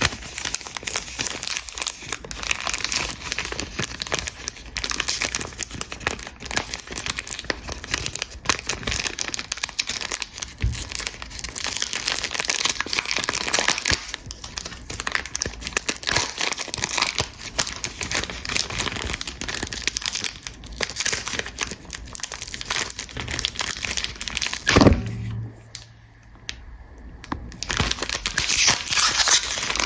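Soap packaging being unwrapped by hand: continuous crinkling and crackling of the wrappers with some tearing. About 25 seconds in there is one sharp knock, followed by a brief pause before the crinkling resumes.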